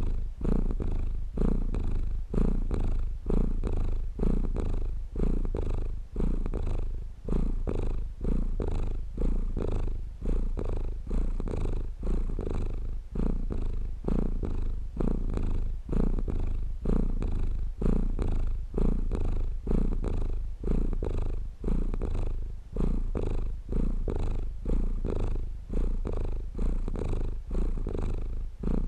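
Domestic cat purring steadily and close up, a deep rumble that swells and fades about once a second with each breath in and out.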